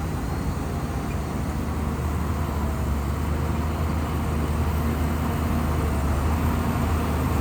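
Shantui bulldozer's diesel engine running steadily with a constant low drone.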